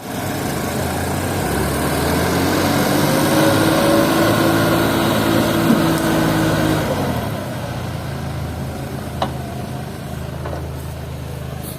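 Diesel farm-machine engine running steadily, with a whine that rises slightly and then stops about seven seconds in, after which the engine settles lower. A single sharp click sounds about nine seconds in.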